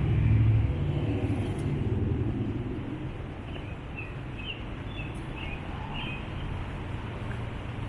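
A passing car's rumble fades away over the first three seconds, leaving a steady outdoor background hiss with a few short, high bird chirps.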